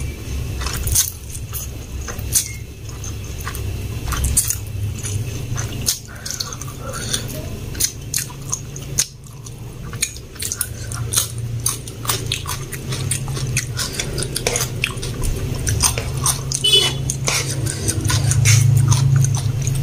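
Close-up eating sounds: chewing and biting fried instant noodles and cucumber, with many short wet mouth clicks and smacks, over a steady low hum that grows a little louder near the end.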